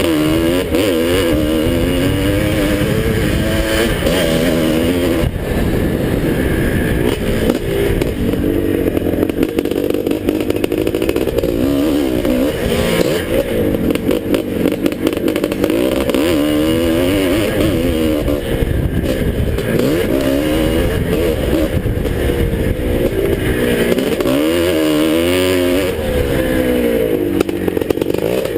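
The 1981 Husqvarna 430's single-cylinder two-stroke engine, revved hard and backed off again and again as the dirt bike races around a motocross track. Its pitch climbs and drops every few seconds.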